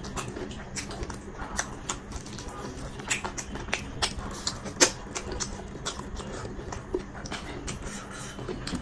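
Close-miked eating sounds: a mouthful of chicken biryani being chewed, with irregular wet mouth smacks and clicks, several a second and a louder smack about five seconds in.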